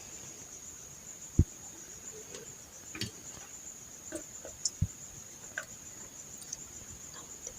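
A steady, high-pitched insect trill throughout. Over it come scattered light clicks and taps of small parts being handled, with two short low thumps about one and a half and five seconds in.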